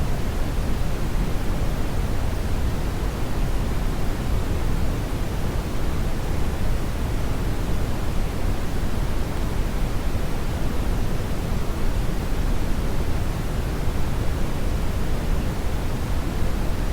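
Steady brown noise: an even, unchanging rushing hiss weighted heavily toward the low end, deep and rumbling with little treble.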